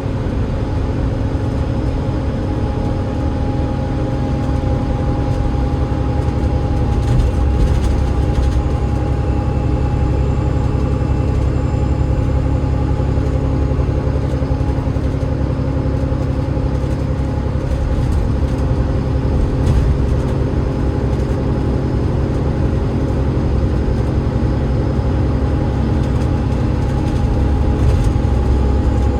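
Alexander Dennis Enviro500 MMC double-decker bus under way, its Cummins ISL8.9 straight-six diesel and ZF EcoLife automatic gearbox running with a steady low drone and a steady whine above it.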